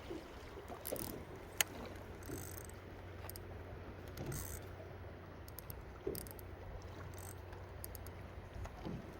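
Steady low hum on board a fishing boat, with scattered light clicks and knocks and one sharp click about a second and a half in.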